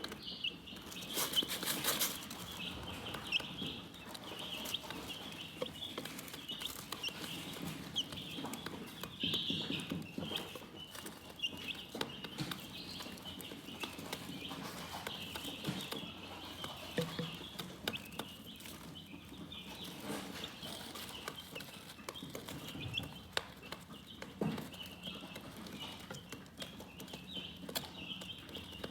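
A flock of chickens chirping continuously in many small high-pitched peeps, with scattered clicks and taps. There is a brief louder noise about a second and a half in.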